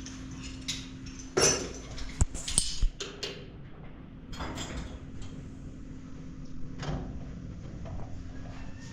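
A cluster of sharp knocks and clatters about a second and a half to three seconds in, then a couple of softer scrapes, over a steady low hum.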